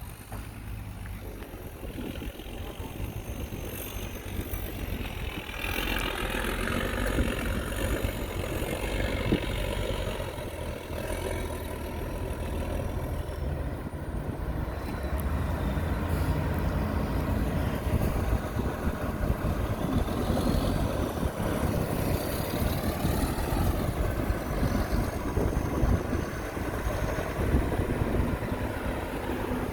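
Heavy diesel engine of earthmoving machinery running steadily. It grows louder over the first several seconds, then holds with small swells.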